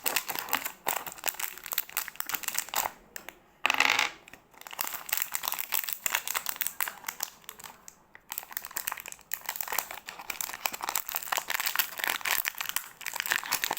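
Plastic packaging crinkling and rustling as it is handled and opened, a dense run of crackles with a louder burst about four seconds in.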